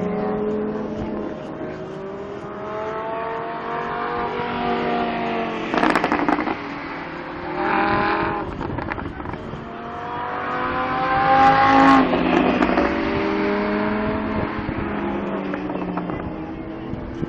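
Ferrari 458's 4.5-litre V8 running hard, its pitch repeatedly rising and falling as it revs up and eases off. It is loudest during a long climb about twelve seconds in, with short rough bursts around six and eight seconds in.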